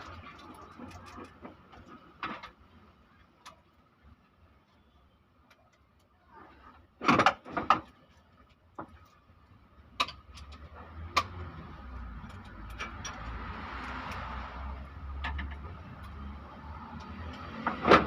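Scattered clinks and knocks of hand tools on metal engine parts during an engine teardown, with a quick loud cluster of knocks about seven seconds in. A steady low hum builds in the second half.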